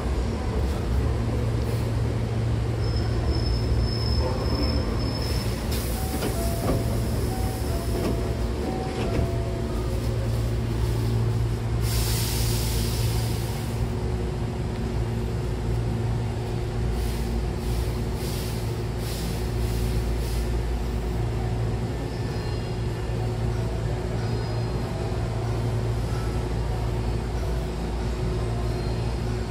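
Hankyu commuter train standing at a platform with its doors open: a steady low hum from the train's equipment. A hiss of released compressed air comes about 12 seconds in, with a shorter one about 6 seconds in.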